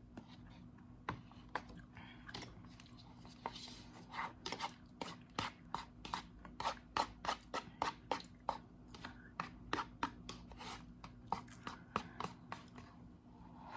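Close-up chewing of crunchy food: a run of sharp crunches, about three a second, strongest in the middle and thinning out near the end.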